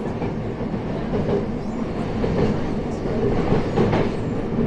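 Electric train running through an underground station: a steady low rumble of wheels on rail that grows a little louder about three seconds in.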